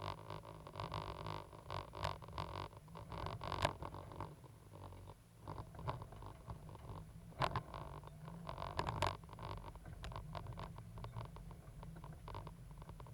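Cat 320GC excavator's diesel engine running with a steady low rumble, under frequent irregular knocks and scrapes of the machine at work, with two sharper clanks about seven and a half and nine seconds in.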